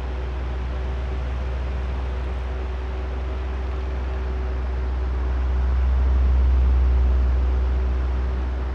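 Oscillating electric fan running: a steady airy drone over a low rumble, with a faint motor hum. The sound swells about two-thirds of the way through and eases off again as the fan head sweeps past.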